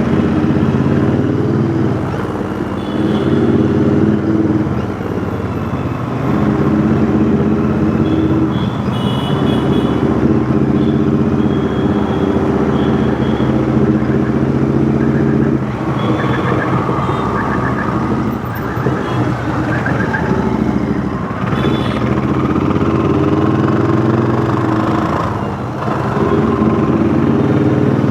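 Royal Enfield Interceptor 650's parallel-twin engine running through a custom 2-into-1 exhaust while riding in traffic, the throttle opening and closing with several short dips where the rider changes gear or rolls off. Brief high beeping tones sound a few times in the middle.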